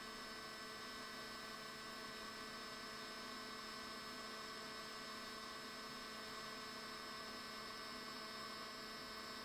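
Steady faint electrical hum and hiss with no other sounds: the recording's background noise.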